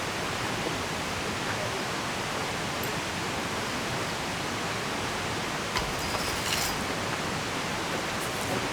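Steady rushing of a flowing river mixed with falling rain, with a few brief light clicks about six seconds in.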